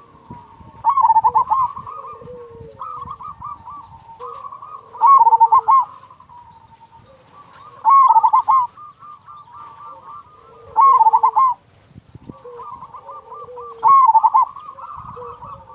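Zebra doves (perkutut) cooing: a loud, rapid, warbling coo phrase comes about every three seconds, five times, with softer coos from other doves in between.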